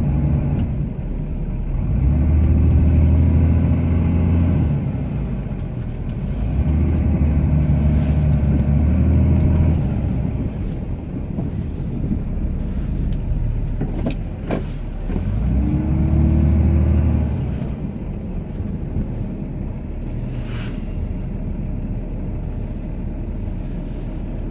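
Cummins inline-six turbo-diesel of a Ram pickup running under load while plowing deep, stiff snow, surging three times as the truck pushes into drifts and easing back in between. A couple of sharp knocks come about halfway through.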